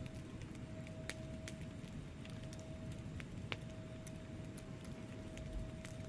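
Wood fire crackling in a fireplace: a steady low rush of burning logs with scattered small sharp pops, the loudest about three and a half seconds in.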